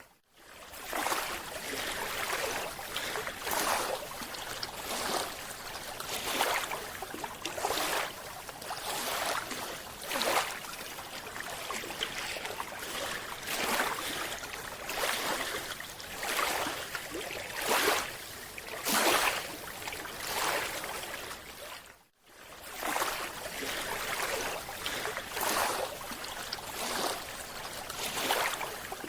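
Underwater sound of a scuba dive: bubbling and hissing surges repeating about every second or so, typical of a diver's regulator breathing and exhaled bubbles. The sound drops out for a moment about two-thirds of the way through.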